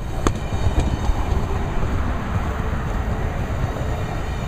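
Amtrak Lake Shore Limited passenger train rolling past at a crawl, a steady low rumble of wheels on rail with one sharp click about a quarter second in.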